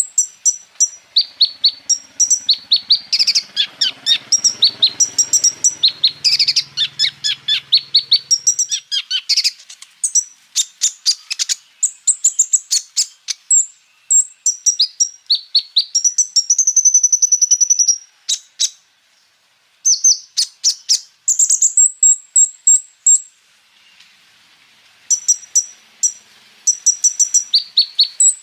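Kolibri ninja, a small sunbird, singing a long, high-pitched song of rapid chips and fast trills in quick bursts, with brief pauses.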